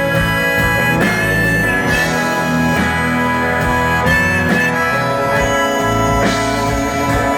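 Live rock band playing an instrumental passage: strummed guitars under a lead melody of held notes that change about once a second.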